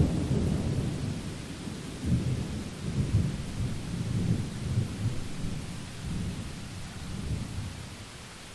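Thunder rolling over steady rain: a loud clap right at the start, then a deep rumble that swells several more times and dies away near the end, leaving the even hiss of the rain.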